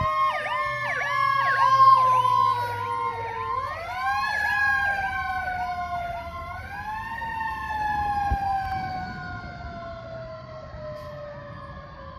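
Fire engine sirens: an electronic siren on a fast yelp, about three cycles a second, over a mechanical siren whose long falling wail is spun back up twice, about four and six and a half seconds in. Both fade steadily as the engine pulls away.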